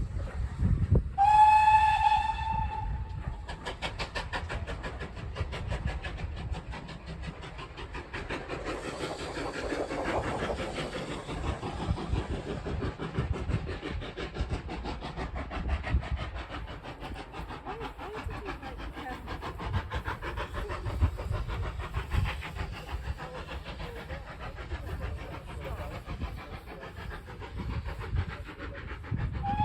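A train whistle blows for about two seconds, its pitch lifting slightly as it opens, then the train runs with a rapid, even rhythmic beat. Another blast starts at the very end.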